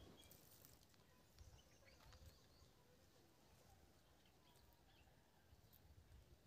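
Near silence outdoors, with a few faint, brief bird chirps now and then.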